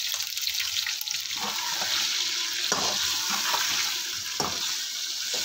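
Chicken pieces and sliced onions frying in oil in a wok, sizzling steadily, with a plastic slotted spatula scraping and stirring them every so often.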